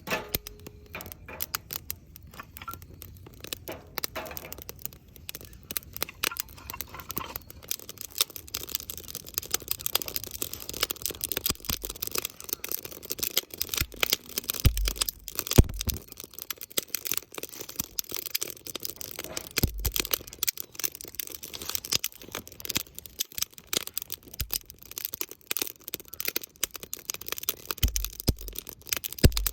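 Wood campfire crackling and popping: a dense, irregular run of sharp snaps from burning firewood that grows busier after the first few seconds, with a few dull low thumps.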